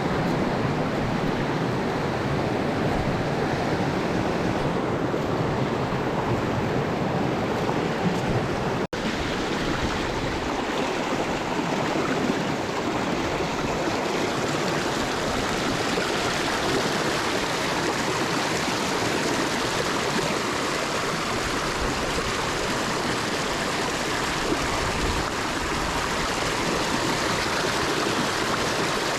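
Mountain stream water rushing steadily, with a split-second dropout about nine seconds in.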